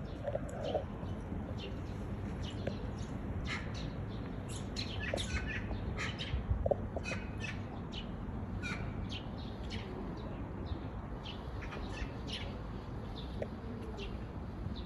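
Several woodland songbirds singing and chirping, short notes following one another closely, over a low steady rumble.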